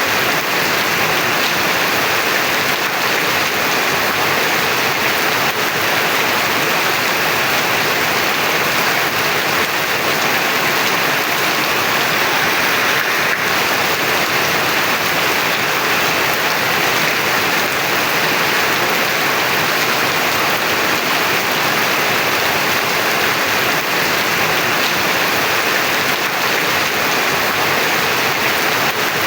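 Heavy rain falling steadily, a dense, unbroken hiss.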